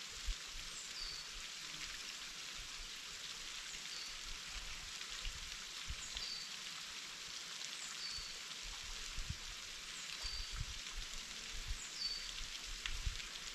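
Waterfall's steady rush of falling water. Over it, a bird gives a short high call that slides downward, repeated about every two seconds, with a few low thumps here and there.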